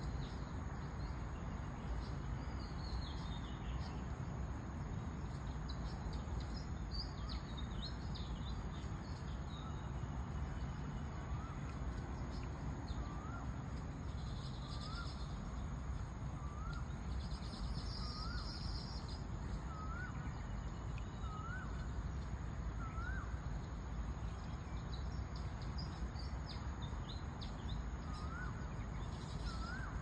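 Birds calling at dawn. One bird repeats a short hooked note about every second and a half, pausing and starting again near the end, while others give scattered higher chirps. A steady low rumble runs underneath.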